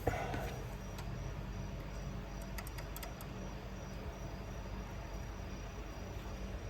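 Crickets chirping steadily over a low, steady hum, with one short knock right at the start.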